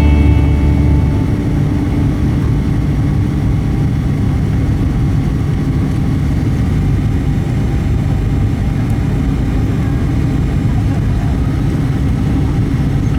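Steady cabin noise of a Boeing 737-800 on approach: a constant rush of engine and airflow noise with a low steady hum. The tail of a music passage ends about a second in.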